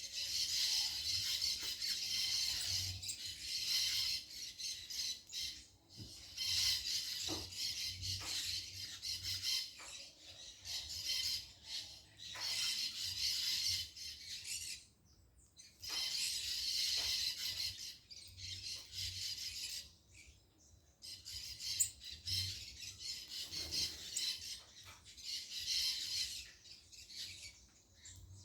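Birds calling with harsh, raspy squawks in bouts of a few seconds, broken by short pauses.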